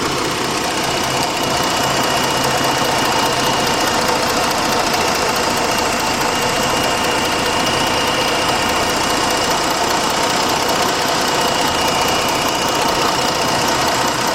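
Jeep Grand Cherokee's 3.7-litre V6 idling steadily, heard up close in the open engine bay, with a thin steady high whine over the running.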